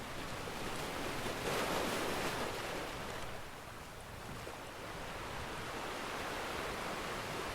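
Ocean surf washing ashore: a wave swells up about a second and a half in, recedes, and the next begins to build, with a few faint crackles from a wood fire.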